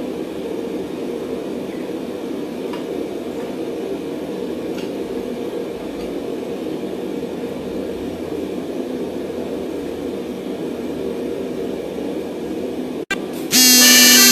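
A forge running with a steady, even rush of noise. About 13 seconds in it cuts off abruptly and music starts.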